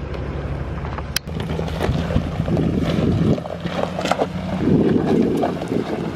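2008 Ford F-150 FX4 pickup's engine running under load as it tries to climb a steep rocky trail, its note changing about three seconds in, with scattered clicks and wind noise on the microphone.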